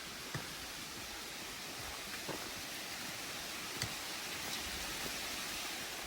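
Steady rushing outdoor noise with a few light clicks scattered through it.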